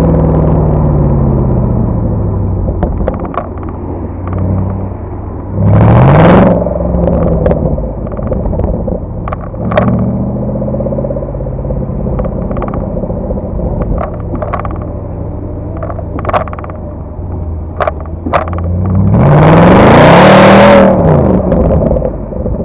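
Mercedes C63 exhaust: the revs fall away at the start, then the engine idles with scattered sharp pops. Two quick revs rise and drop back, about six seconds in and near the end; the second is longer and the loudest.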